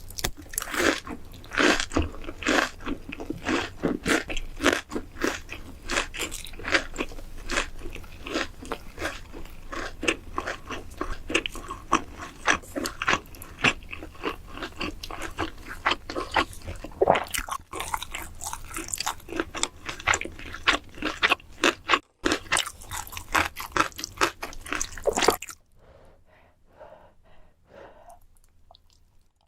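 A person chewing crunchy food close to the microphone, a rapid run of crisp crunches that stops about 25 seconds in, leaving only faint mouth sounds.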